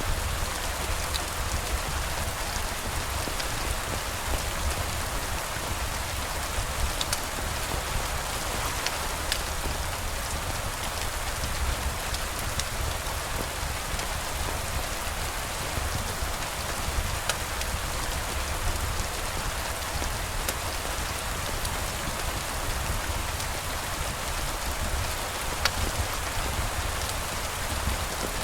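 Steady rain falling, an even hiss with a low rumble beneath it and a few isolated sharp clicks.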